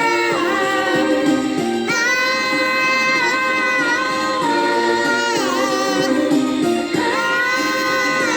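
Song with a singer holding long, drawn-out notes over backing music, the pitch wavering on one note midway.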